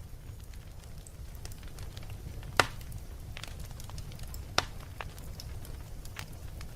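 Wood fire in a fireplace crackling over a low steady rumble, with scattered small snaps and two loud pops, about 2.6 and 4.6 seconds in.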